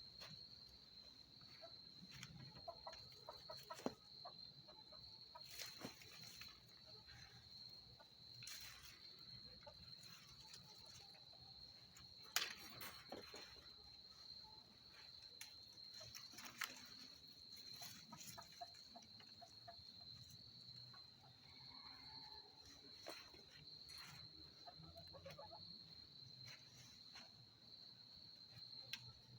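Free-ranging chickens clucking softly now and then over a steady high-pitched insect drone, with scattered light clicks and rustles.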